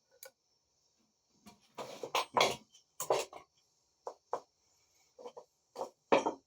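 Metal parts of a Maytag wringer washer gearbox clinking and knocking as they are handled during reassembly: a string of short, sharp knocks that start about a second and a half in.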